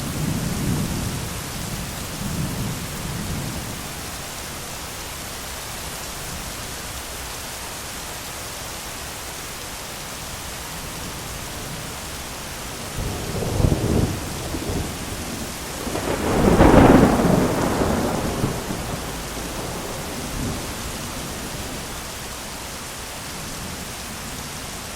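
Thunderstorm: steady heavy rain with rolling thunder. Low rumbles sound in the first few seconds, a sharper peal about halfway, and then the loudest clap, which swells into a long rumble and fades over several seconds.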